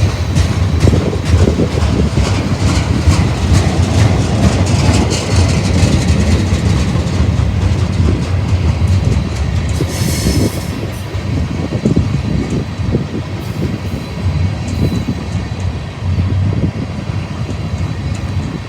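Freight train cars rolling past, a steady low rumble with repeated wheel clicks and clatter over the rails. There is a brief high-pitched burst about halfway through.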